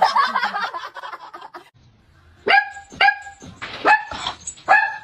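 A dog barking: a busy jumble of sound for the first second and a half, then four short, high barks spaced about half a second to a second apart.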